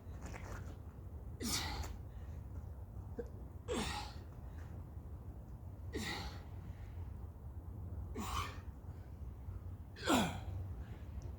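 A man's sharp, forceful exhales with a short falling grunt, one with each push-up, about every two seconds. There are five in all and the last is the loudest, over a low steady hum.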